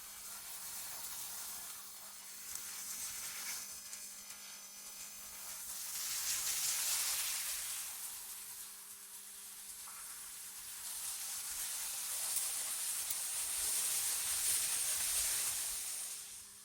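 AI-generated cold-wind ambience: a high, hissing rush of wind that swells and fades in slow gusts, with a faint steady low hum underneath.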